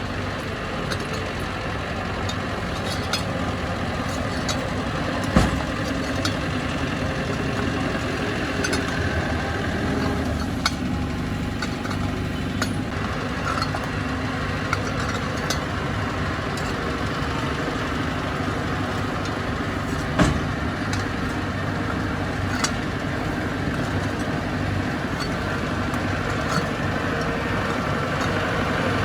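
Heavy diesel earthmoving machinery running steadily, with scattered sharp clanks and knocks; the two loudest come about five seconds in and about twenty seconds in.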